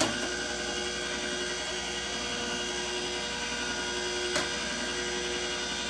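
Slow masticating juicer's electric motor running steadily in forward, a constant whine with several fixed tones. A single sharp click about four and a half seconds in.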